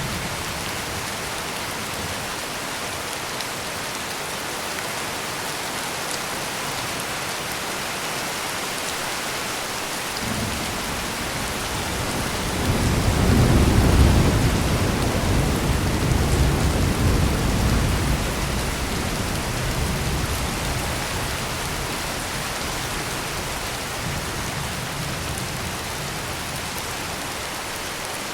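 Heavy rain pouring steadily, with a roll of thunder that rumbles in about ten seconds in, swells to a peak a few seconds later and dies away.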